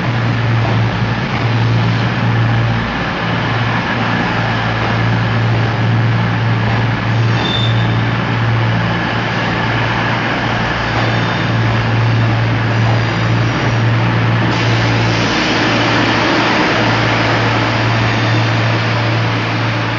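Diesel train engine running at a station platform: a steady, loud low drone under a broad hiss of station noise.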